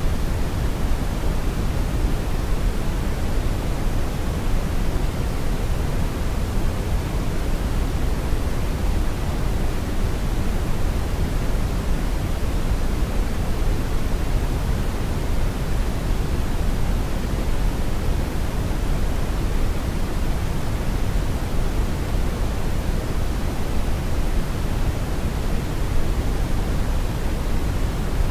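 Steady brown noise: an even, unchanging rumbling hiss weighted heavily toward the low end.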